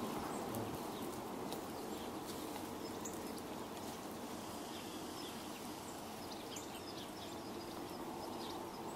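Steady outdoor background noise with a faint low hum, and a few faint, scattered high chirps of small birds.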